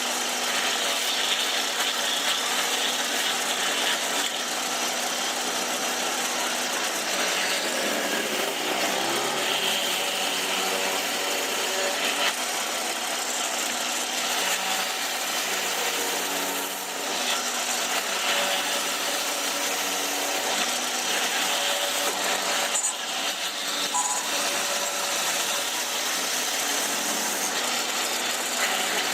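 Electric power tool cutting or shaping wood, running steadily with a brief dip about halfway through.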